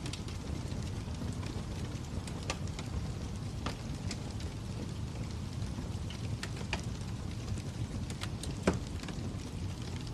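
Fire crackling: a steady low rumble with irregular sharp pops and snaps, one louder pop about two-thirds of the way through.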